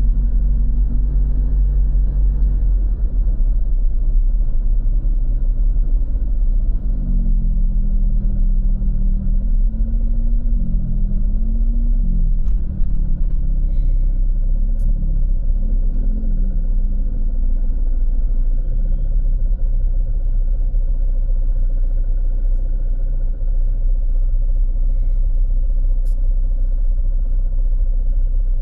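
Road traffic: a steady low rumble, with a vehicle engine rising and falling in pitch for several seconds in the middle, as if it were speeding up and slowing down.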